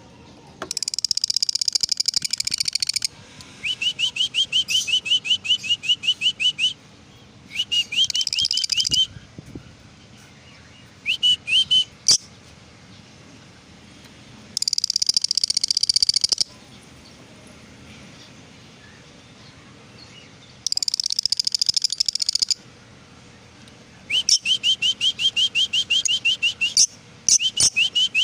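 A pair of lovebirds calling in bursts: harsh, scratchy chattering bouts alternate with fast runs of short, shrill rising chirps, about five a second, with short pauses between.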